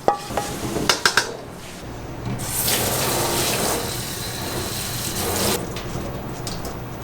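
A few light knocks, then water running hard from a tap for about three seconds before easing off.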